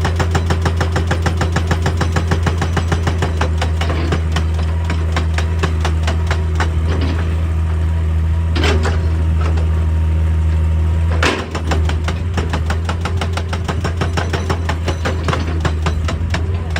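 Excavator's diesel engine running with a steady low drone while a hydraulic breaker hammers rock in a rapid, even rhythm of about ten blows a second, with a few heavier strikes. About eleven seconds in the engine drone drops off sharply and the hammering goes on.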